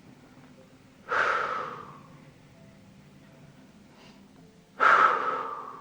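Two forceful exhales into the microphone, about a second in and near the end, each sudden and trailing off over about a second: a person breathing out while holding a stretch.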